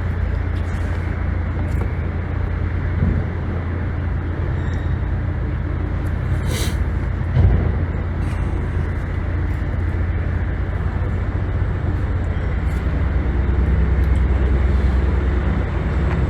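An engine running steadily with a low, even drone, with a brief knock about seven and a half seconds in.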